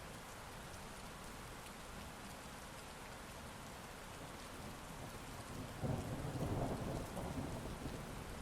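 Steady heavy rain hissing, with a deep, rolling thunder rumble that swells up about two-thirds of the way through and eases off near the end.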